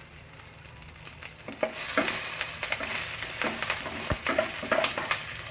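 Green chillies and whole spices sizzling in hot oil in a kadai while a spatula stirs and scrapes the pan. The sizzle grows louder about two seconds in.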